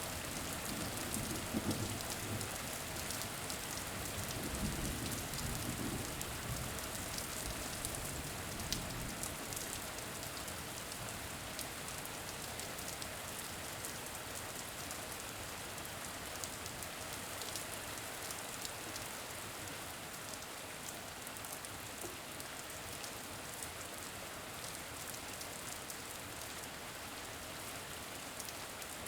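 Steady rain falling, with a low rumble of distant thunder over the first several seconds that fades away.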